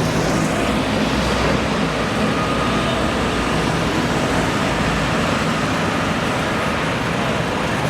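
Steady road traffic noise: a continuous, even rumble of passing vehicles.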